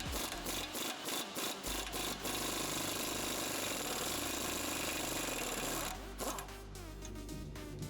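A power tool running with a rapid mechanical rattle, which thins out about six seconds in.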